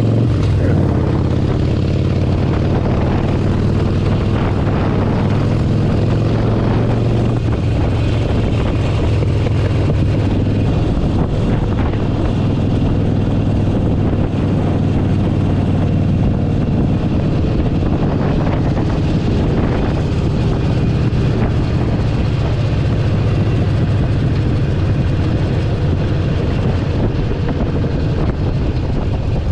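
Harley-Davidson Forty-Eight Sportster 1200's air-cooled V-twin running while the bike is ridden, with wind rushing over the microphone. The engine note is strong and steady for about the first ten seconds, then sinks under the wind and road noise.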